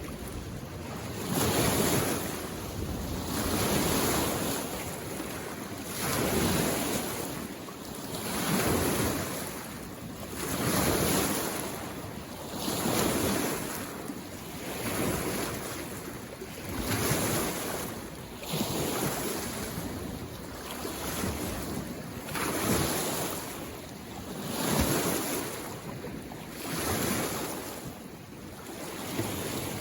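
Small waves washing in on a mountain lake shore, one swell and fade about every two seconds in a steady rhythm.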